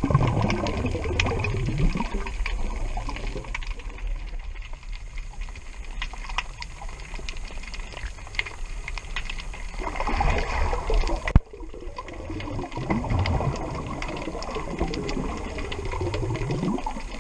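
Water gurgling and sloshing, with swooping low gurgles and small crackles, broken by an abrupt cut about eleven seconds in.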